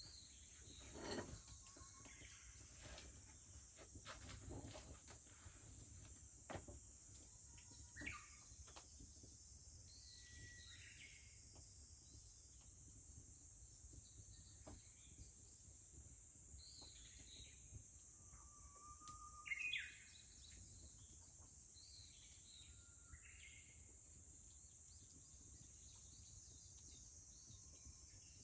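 Japanese bush warblers (uguisu) singing now and then, each phrase opening on a held whistle and breaking into quick higher notes, the loudest about twenty seconds in. Underneath runs a steady high cicada drone, with a few pops from the wood fire in the first eight seconds.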